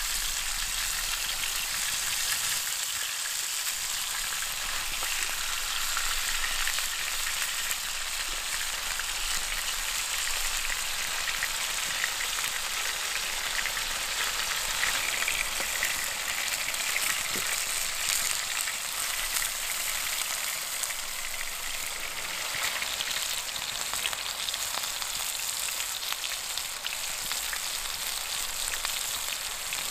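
Beef burger patties with sliced tomato, onion and peppers sizzling in a ribbed grill pan: a steady frying hiss with fine crackles.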